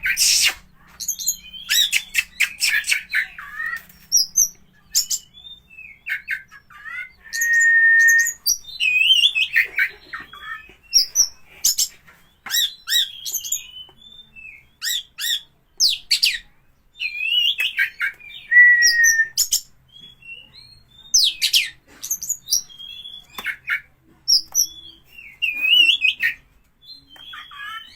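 A songbird singing a fast, varied song of chirps, sliding whistles and sharp clicks, twice holding one steady whistle for about a second.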